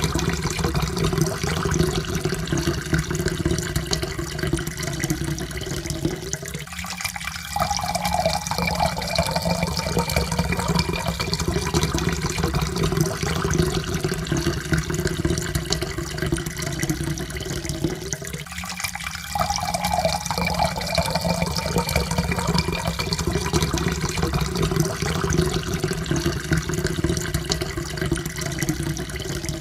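Water pouring steadily into a cup, with short breaks about seven and nineteen seconds in; after each break the pitch of the pour slowly rises as the cup fills.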